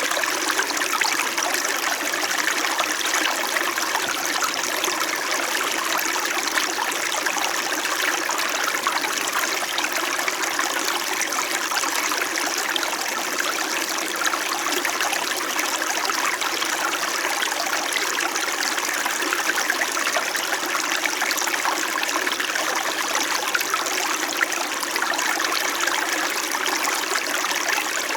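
Small mountain stream flowing over rocks: a steady babbling and trickling of water.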